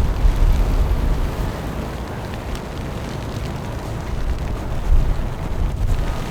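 Wind buffeting the microphone: a loud, gusting low rumble that swells and eases irregularly, heaviest near the start and again about five seconds in.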